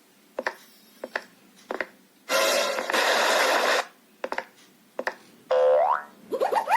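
Cartoon sound effects: a few short knocks, a loud burst of hissing noise lasting about a second and a half, more knocks, then two rising whistle-like glides near the end, the second one warbling upward.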